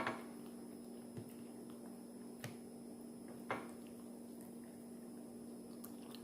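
Quiet room with a steady low hum and three short, soft clicks or taps about a second apart.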